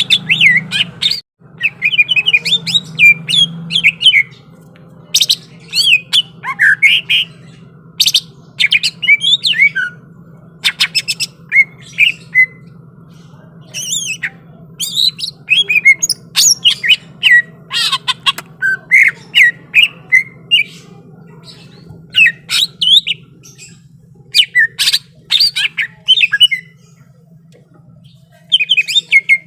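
Green leafbird (cucak ijo) singing vigorously in repeated bursts of rapid, sharp chattering and whistled notes, with short pauses between phrases. A faint steady low hum runs underneath.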